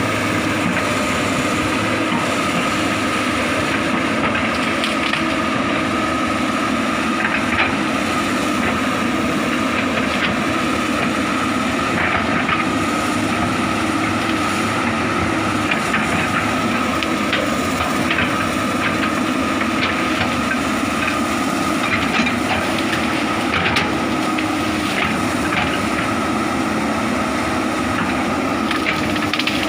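Komatsu hydraulic excavator running steadily under load, with scattered sharp cracks of wood and branches being broken and crushed as it clears brush.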